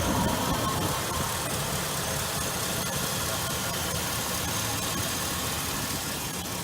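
A 2002 Chevrolet Avalanche 1500's 5.3-litre V8 idling steadily.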